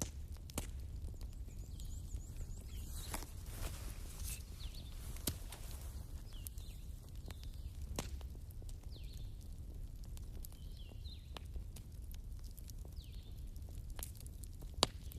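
Fireplace fire crackling, with irregular sharp pops and snaps over a low steady rumble, and a few faint, high, downward-sweeping chirps.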